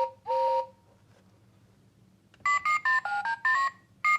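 Thomas the Tank Engine toy phone playing electronic sounds through its small speaker: two short tooting tones right at the start, then after a pause of under two seconds a fast run of short beeps stepping up and down in pitch.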